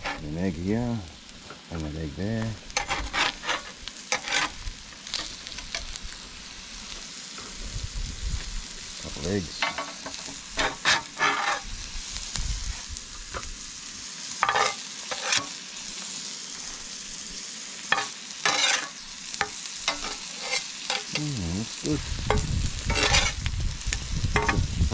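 Spam frying, sizzling steadily, with a utensil scraping and clicking against the pan at irregular intervals as the pieces are stirred and turned.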